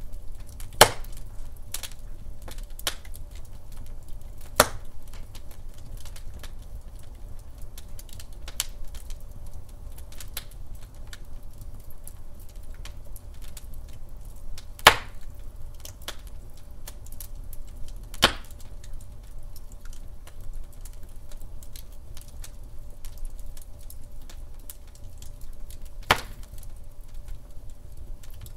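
Wood fire crackling in a fireplace: scattered small snaps and ticks over a low rumble of burning, with sharper pops about a second in, around five seconds, near fifteen and eighteen seconds, and near the end.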